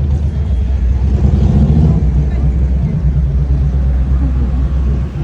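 A motor vehicle's engine running with a steady low drone, with voices mixed in.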